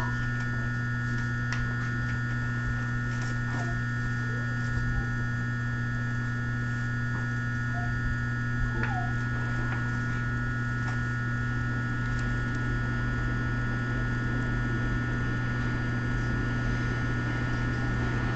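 Steady electrical hum of a stationary E217-series electric train standing at a station platform, with several even pitched tones that do not change. A few faint clicks and a short chirp sound about nine seconds in.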